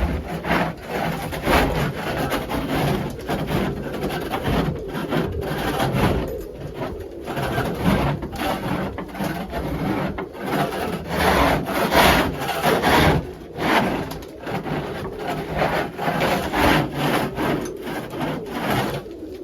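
Repeated scraping strokes of a scraper dragged across the floor of a pigeon coop, scraping up droppings.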